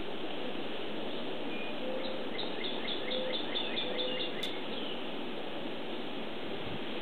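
Steady outdoor background noise with a songbird calling a quick run of about eight short, repeated chirps in the middle, alongside three short low notes.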